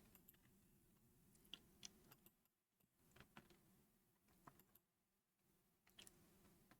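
Near silence with a few faint, scattered computer clicks.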